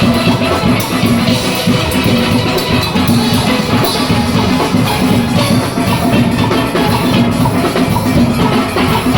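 A steel orchestra playing: many steelpans carrying the tune and harmony over a driving rhythm section of drum kit and percussion.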